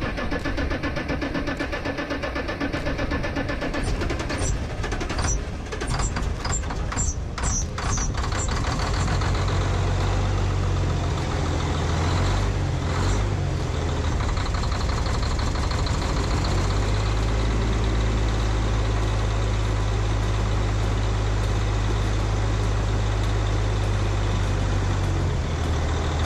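Dump truck's diesel engine cranking for several seconds, then catching about eight seconds in and running unevenly while it is given throttle, a sign of air still in the fuel system after a fuel-filter change. After about sixteen seconds it settles to a steady idle.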